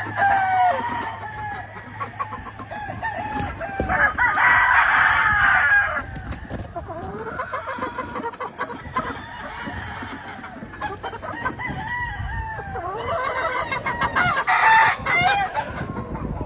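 Several gamefowl roosters crowing over one another, with clucking between the crows. The loudest, longest crows come about four seconds in and again near the end.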